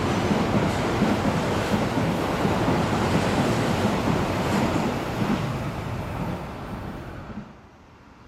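Toei Asakusa Line electric train running past the platform at speed: a steady rush of wheels on rail and air, which drops away sharply near the end.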